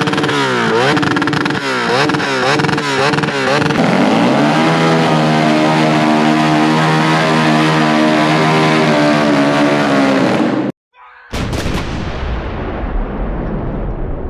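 Motorcycle engine revved hard in quick repeated blips, about two a second, then held steady at high revs for several seconds. It cuts off abruptly, and after a brief gap a loud low rumble follows.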